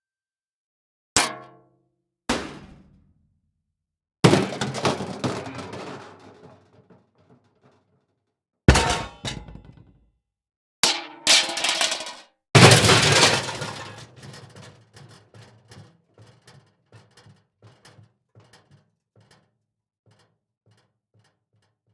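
A series of separate impact sound effects, hits and crashes one after another with short gaps between. Two of them are longer crashes that fade over a few seconds. The last is followed by a long run of small clicks that slow and die away.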